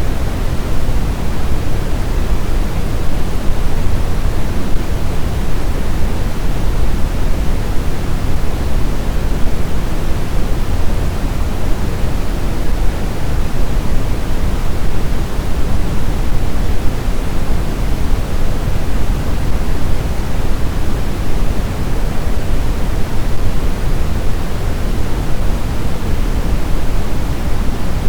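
Blizzard wind: a steady, even rushing noise, heaviest in the low end, with no gusts, howls or distinct tones.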